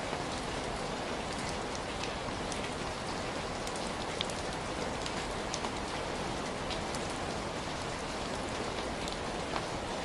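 Heavy rain falling steadily, a dense even hiss with individual drops clicking and pattering on surfaces throughout.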